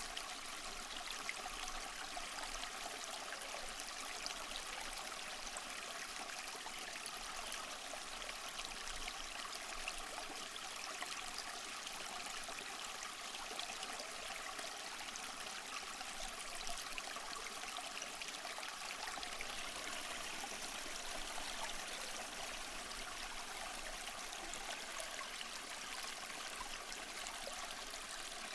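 Small waterfall over mossy rocks, water splashing and trickling in a steady, even rush.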